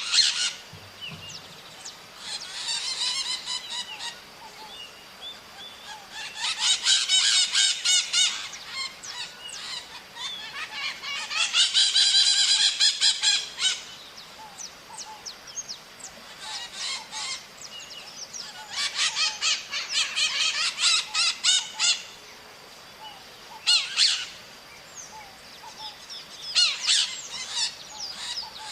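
Maritacas, small Brazilian parrots, giving bouts of rapid, harsh screeching calls, each bout lasting one to two and a half seconds and separated by short gaps. A faint steady high tone runs underneath.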